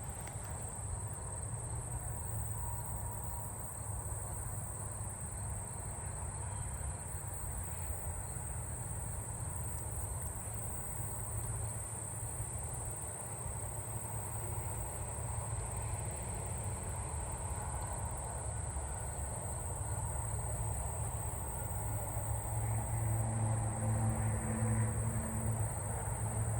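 Steady, unbroken high-pitched chorus of singing katydids and crickets. A low rumble grows louder near the end.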